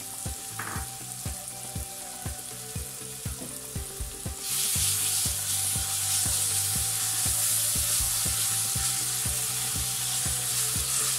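Onions, green chillies and ginger-garlic paste sizzling in hot oil in an aluminium kadai. About halfway through the sizzle grows louder as a wooden spatula starts stirring them.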